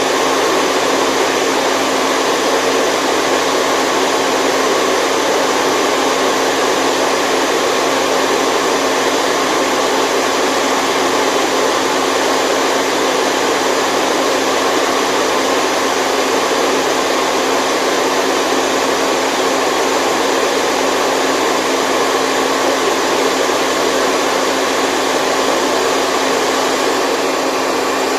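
Steady white noise, a loud unbroken hiss with almost no bass, the kind of continuous sleep sound played for babies.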